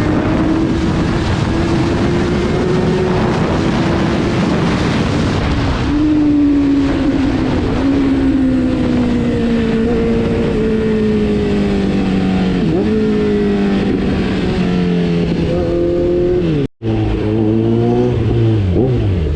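Kawasaki Z900's inline-four engine running at speed, its pitch holding steady and then sliding slowly down as the bike slows, with a few short dips from gear changes. The sound cuts out for an instant about seventeen seconds in.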